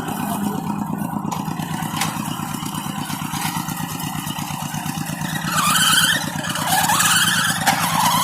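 Tractor diesel engine running under way, with a steady fast putter. In the second half, high rising whines come and go a few times over it.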